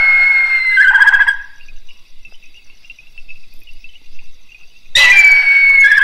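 A buzzard calling twice: each call is a long high note that slides slightly down, then breaks into a lower quavering end. The first call ends about a second and a half in, and the second begins near the end.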